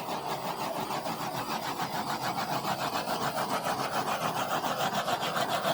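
Handheld torch flame hissing steadily with a fast flutter, played over wet acrylic pour paint to pop bubbles and bring up cells.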